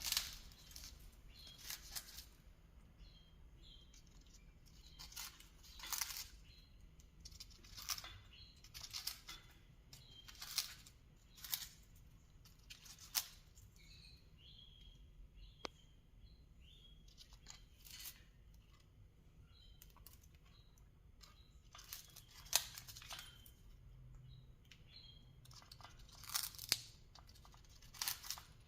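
A parrot tearing and crunching at a toy with its beak, in irregular short bursts every second or two, with soft chirps between them.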